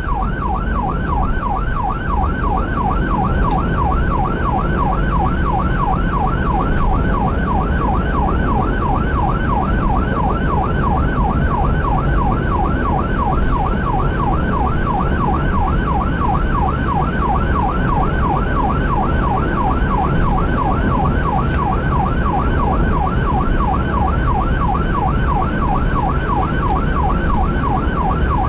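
Emergency vehicle siren in the fast yelp pattern, sweeping up and down about three to four times a second, over the steady low rumble of the vehicle's engine and road noise.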